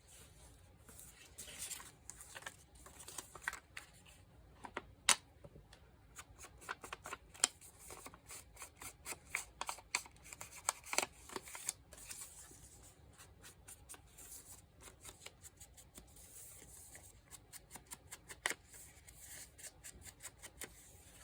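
Paper being handled and folded by hand: a scatter of crinkles, rustles and sharp taps as the sheets are creased, with the sharpest taps about five and eleven seconds in.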